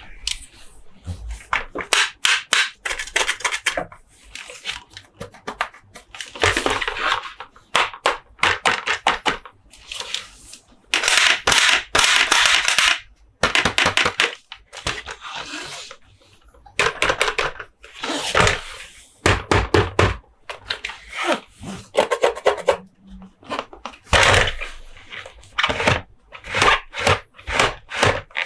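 Hands handling plastic Monster Jam toys and their packaging close to the microphone: irregular tapping, clicking and scratching, broken by several longer spells of scratchy rubbing or rustling.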